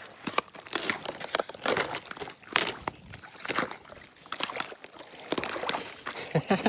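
A runner's footsteps on a mountain path: quick, uneven footfalls, about two to three a second.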